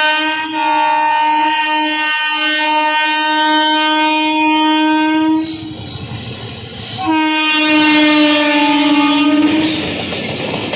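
Indian Railways locomotive horn sounding two long blasts, the first about five seconds and the second about two and a half, as a train runs through at high speed. Between and after the blasts the train's wheels and coaches rumble and clatter past.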